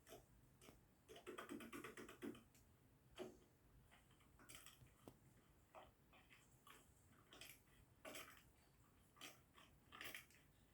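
Faint, scattered clicks and rustles of small handling noise, with a quick run of rapid clicks a second or so in.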